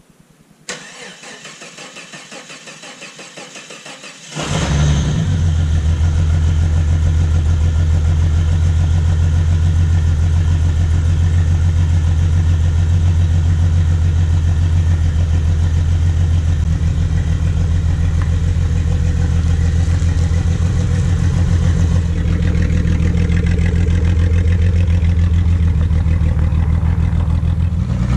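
1989 Jeep Cherokee with a straight-piped exhaust: the starter cranks for about three and a half seconds, then the engine catches and settles into a loud, steady idle.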